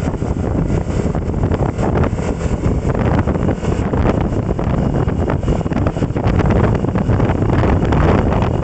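Wind buffeting the microphone: a loud, steady, rough rush, heaviest in the low end, with no distinct engine note or other event standing out.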